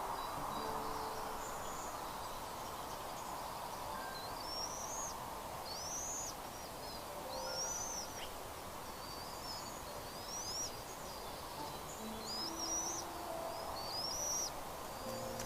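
A bird giving a series of thin, high-pitched calls, each rising then falling, about one a second, over a steady outdoor hiss of wind or environmental noise.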